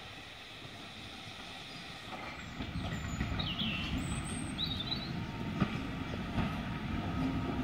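GWR steam railmotor no. 93 propelling its auto trailer towards the listener: the wheels rumble on the rails, growing louder, with a few sharp clicks over rail joints near the end.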